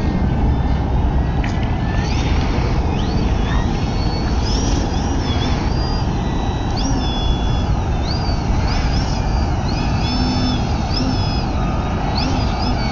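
Brushless electric motor and propeller of an RC aerobatic plane whining, the pitch jumping up, holding and dropping again with repeated bursts of throttle. Steady wind noise on the microphone runs underneath.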